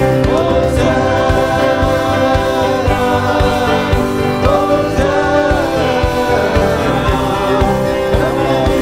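Contemporary worship song: a band playing with a steady beat, with singing over it.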